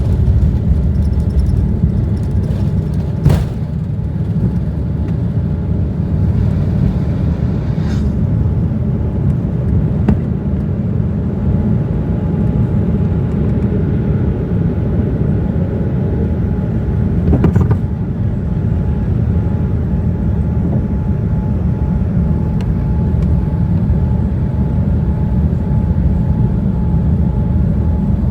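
Cabin noise of a Boeing 787-9 airliner heard from economy: a steady low rumble of engines and airframe, with four short sharp knocks or rattles scattered through it.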